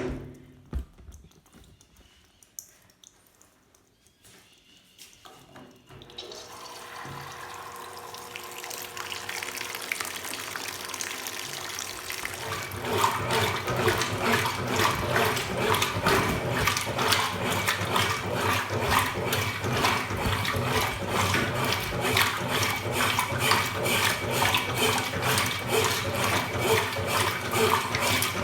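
Top-loading washing machine filling its drum with water on starting a wash: quiet for the first few seconds, then water begins to run in about six seconds in and grows louder into a steady rushing splash from about twelve seconds.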